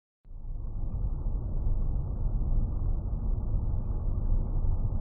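Steady low rumble of a car's engine and road noise, recorded from inside the cabin by a dashcam, starting suddenly about a quarter second in.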